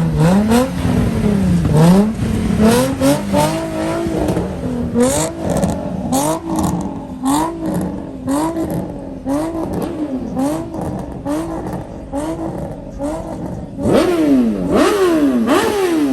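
A car engine being revved up and down over and over, about once a second, with quicker, sharper revs near the end.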